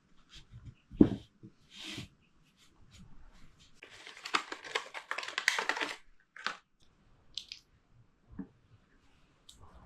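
Handling noises at a workbench: a sharp knock about a second in, then a few seconds of crinkly, tearing rustle, with scattered small clicks afterwards.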